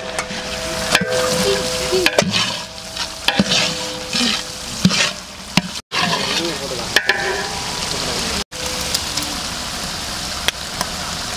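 Vegetables and onions frying in oil in a large cooking pot, a steady sizzle with a ladle stirring and scraping against the pot. The sound cuts out briefly twice.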